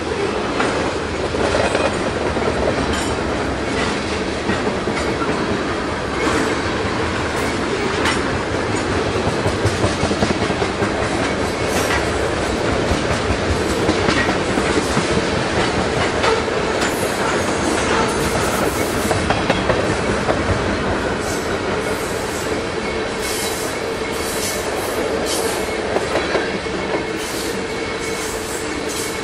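Freight train of tank cars rolling past: a steady rumble of steel wheels on rail, with a run of clicks as the wheels cross rail joints and a faint steady squeal from the wheels.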